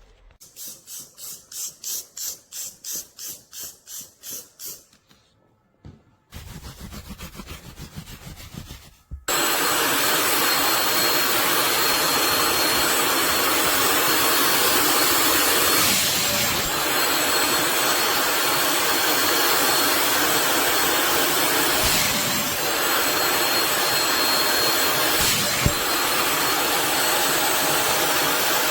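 Quick regular hissing pulses, about three a second, then a short rattle. About nine seconds in, a handheld upholstery wet vacuum's motor switches on and runs steadily and loudly with a high whine.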